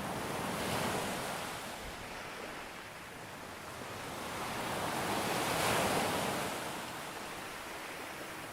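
Sea surf breaking on a beach and washing back: two waves swell up and fade about five seconds apart, the second one louder.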